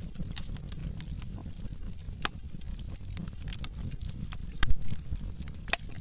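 Wood fire burning in a fireplace: logs crackling with frequent sharp pops over a low steady rumble, and a louder cluster of pops about three-quarters of the way through.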